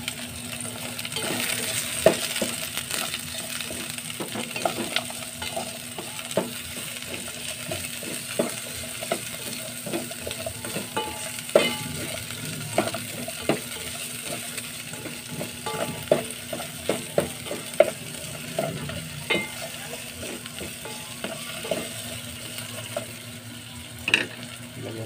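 Sliced ginger, turmeric and onion sizzling in olive oil in an aluminium pot. A slotted spatula stirs them, scraping and knocking irregularly against the pot.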